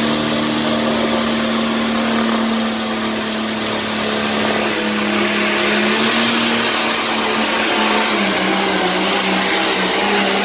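International pulling tractor's engine running at full throttle under load during a pull, with a high whine that climbs slowly in pitch. The engine note sags somewhat about eight seconds in.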